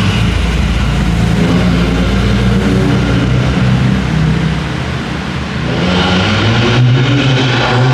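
Sports car engines and exhausts running as the cars drive inside a concrete parking garage. The sound dips briefly about five seconds in and then swells again.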